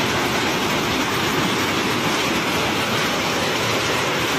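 Steady, dense rushing of storm water.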